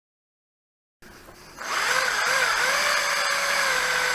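Power drill cutting into a steel part. After a moment of silence its motor spins up about one and a half seconds in, and its whine wavers briefly before settling to a steady pitch.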